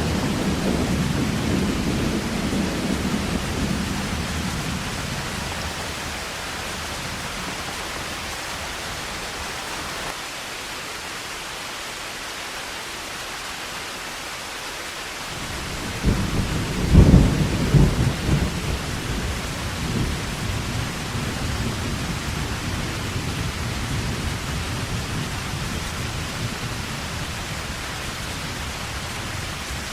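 Steady heavy rain with thunder: a low rumble dies away over the first few seconds, and about halfway through a sudden loud thunderclap breaks out and rumbles off over a few seconds.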